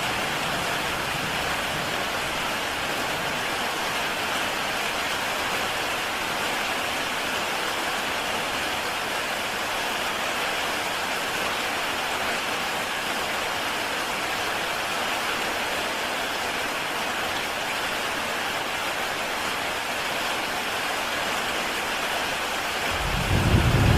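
Heavy rain falling steadily on a tile roof, an even dense patter. Near the end a low rumble of thunder comes in.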